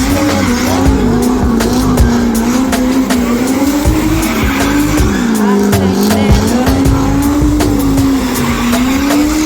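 Car engine held at high revs with its pitch rising and falling, tyres squealing as it spins donuts.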